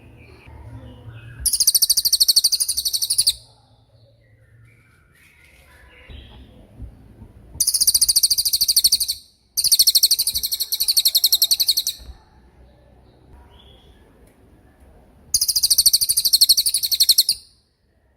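A cililin songbird singing its sharp 'tembakan' phrase: four bursts of a very high, rapid trill, each about two seconds long, with short pauses between.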